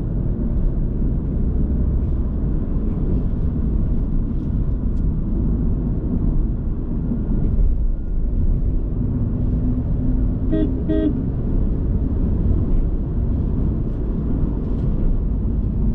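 Steady road and engine noise of a Mahindra XUV300 driving at highway speed, with two short car-horn toots about ten and a half seconds in.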